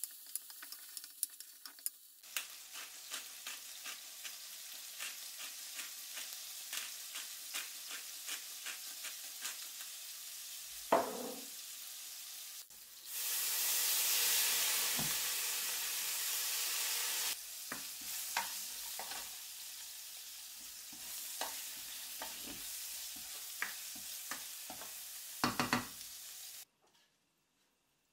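Shrimp sizzling in hot oil in a non-stick wok, with a spatula clicking and scraping against the pan as they are stirred. About halfway through, a louder hissing rush lasting about four seconds rises with a cloud of steam as liquid hits the hot pan. The frying sound cuts off suddenly shortly before the end.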